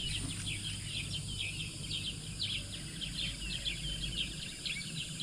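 Wild birds chirping and calling rapidly over and over, many short high notes, over a steady low rumble.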